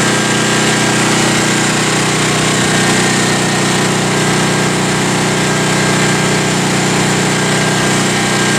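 A steady motor drone with an even hum, running without a break.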